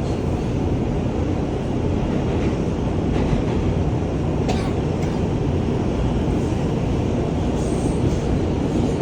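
New York City subway train running, heard from inside the car as a steady, loud rumble.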